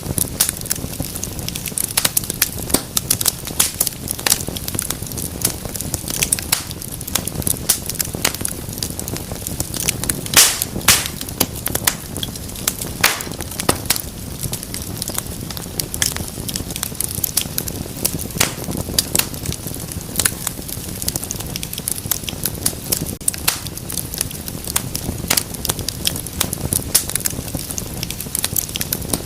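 Wood fire burning with a steady low rumble and frequent irregular crackles and pops, a couple of louder snaps about ten seconds in.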